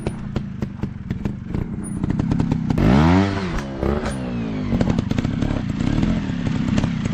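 Dirt bike engine running with clattering knocks, revved up and back down about three seconds in and again briefly a second later.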